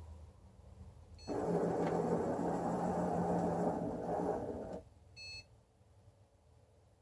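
Excalibur Mirage chess computer beeping briefly, then the motors of its robotic mechanism running for about three and a half seconds as they drive the electromagnetic head across the board, stopping abruptly; a second short beep follows.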